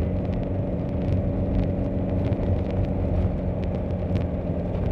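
Steady low drone of a car's engine and road noise heard inside the cabin while driving, with a few faint ticks.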